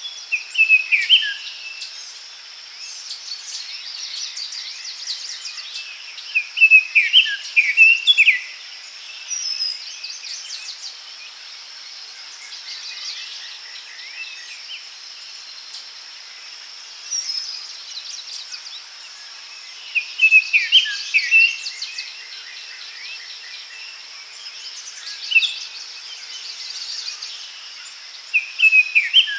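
Daytime forest ambience: songbirds singing short phrases of quick falling notes every few seconds over a steady high buzz of insects.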